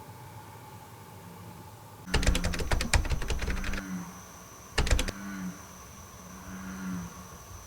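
American bullfrogs calling: short low croaks, several times. A loud rattle of rapid clicks comes in about two seconds in and lasts over a second, with a brief second rattle near five seconds.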